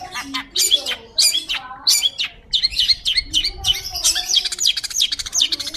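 Long-tailed shrike singing: a fast, continuous stream of sharp, high chattering notes mixed with short whistled slides.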